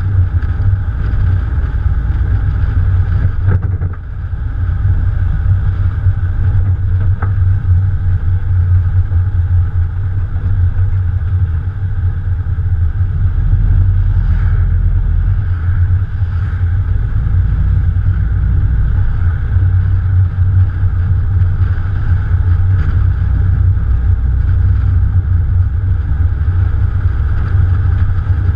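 Morgan Plus 4's Ford 2.0-litre four-cylinder engine running, heard from a camera on the bonnet with a steady low rumble and wind noise on the microphone. The sound dips briefly about four seconds in.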